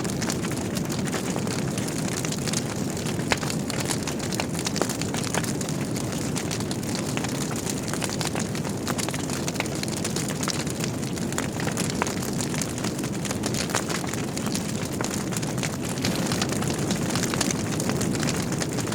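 Wood logs burning in a fireplace: a steady low rush of flame with frequent small crackles and pops, and a couple of sharper pops a few seconds in.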